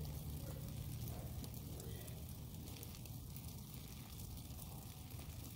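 Light rain and dripping water: many small ticks of drops over a soft steady hiss, with a low steady rumble underneath, as a thunderstorm tapers off.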